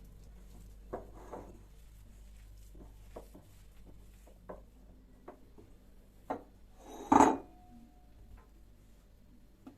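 Light knocks and taps of objects being handled, scattered every second or so, with one much louder clatter a little after seven seconds that leaves a brief ringing tone.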